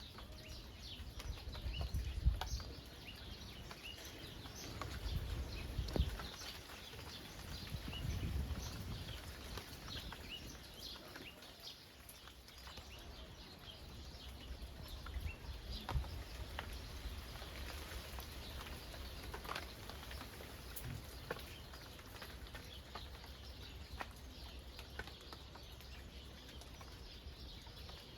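Birds chirping continuously over a soft, steady patter of rain falling on the countryside, with a few low rumbles in the first nine seconds.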